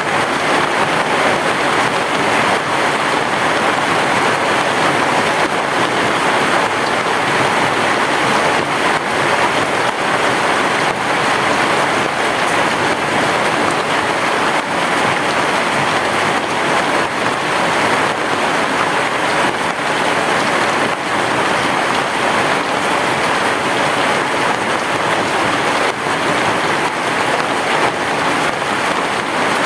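Heavy rain falling steadily on a roof, a dense, even patter with no thunder heard.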